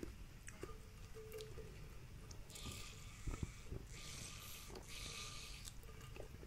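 Quiet handling of seafood-boil food by hand: a few faint clicks and a soft rustle lasting about two seconds in the middle.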